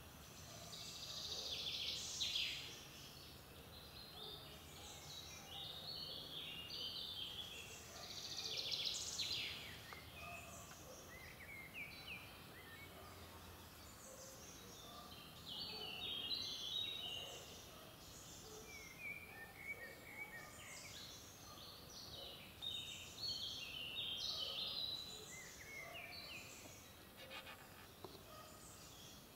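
Songbirds singing short, high, quick phrases that recur every few seconds over a faint steady background hiss.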